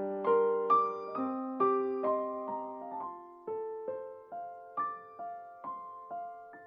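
Background music: solo piano playing a slow melody of single struck notes, about two a second, each ringing and dying away, growing softer toward the end.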